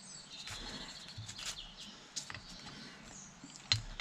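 Faint handling sounds of small hydraulic pump parts being fitted together: light scattered clicks and scrapes, with one sharper click near the end.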